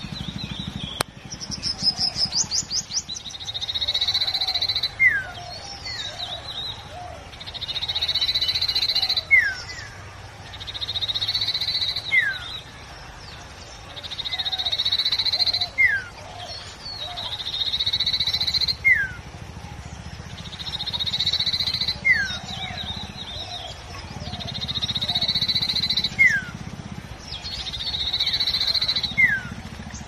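A common iora (sirtu) singing the same phrase over and over, about every three seconds: a long, steady high whistle of a second or more, ending in a quick down-slurred note. A rapid trill of short high notes comes once near the start, and a low rumble runs underneath.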